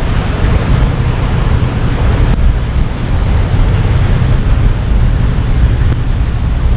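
Narrowboat's diesel engine running steadily under way inside a long brick canal tunnel: a loud, even rumble with a rushing noise over it and two faint clicks.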